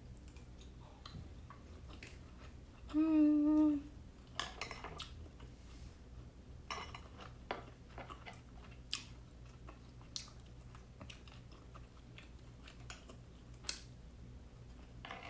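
Close-miked chewing of steamed siomai dumplings and rice, with soft wet mouth smacks and small clicks throughout. About three seconds in there is a short, loud hummed 'mmm' lasting under a second.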